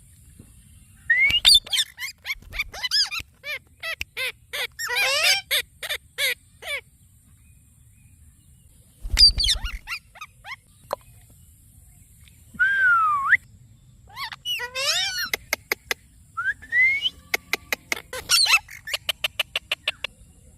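Indian ringneck parrot vocalising in short bouts of chirps and whistles with quick swooping pitch, including one falling whistle partway through, then a run of rapid sharp clicks near the end.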